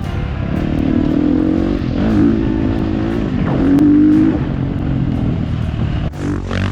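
Dirt bike engine revving up and down while riding, its pitch rising and falling with the throttle. The sound breaks off abruptly about six seconds in.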